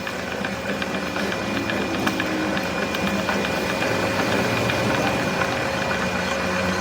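A machine running steadily, with a constant hum and a light, rapid ticking.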